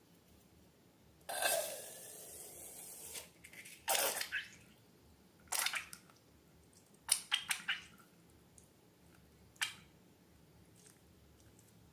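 Slime being worked by hand: wet squishes and drips, starting with a longer squelching squeeze of about two seconds, then single squelches every second or two and a quick cluster of small clicks midway.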